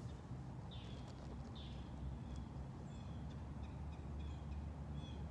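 Small birds chirping in short high calls, with two swooping calls about a second in, over a steady low rumble.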